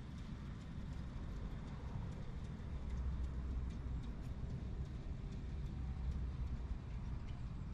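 Train running along track: a steady low rumble with faint, regularly spaced clicks.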